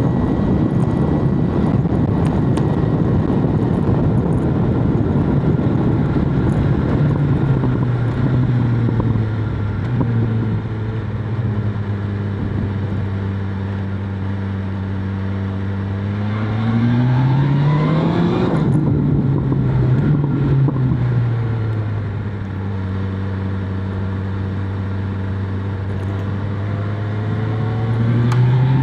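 BMW S1000RR inline-four engine and exhaust while riding. At first there is a dense wind roar at speed, then the engine settles to a steady note. About halfway through it revs up sharply and breaks off at a gear change, then drops back to a steady note and rises again near the end.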